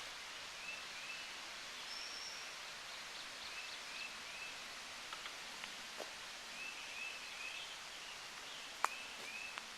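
Woodland ambience: a steady hiss with small birds repeating short, high chirps, often in pairs, and a few sharp ticks, the loudest one near the end.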